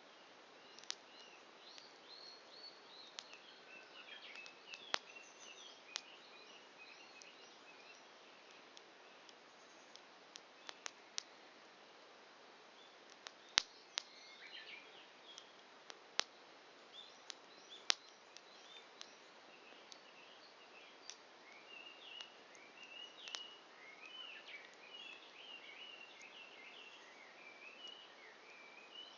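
Wood campfire crackling, with about a dozen sharp scattered pops, the loudest about halfway through. Birds chirp in the background in several bursts, most near the end.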